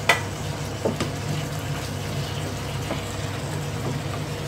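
Chicken and vegetables sizzling in a steel wok as a wooden spatula stirs them, knocking sharply against the pan right at the start and a couple of times more softly after. A steady low hum runs underneath.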